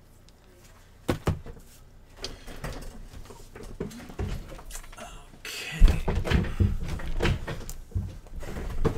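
Hands working on an iPad at a repair bench: a series of sharp knocks and clicks, then a busier stretch of clatter and rustling with the loudest thump about six seconds in.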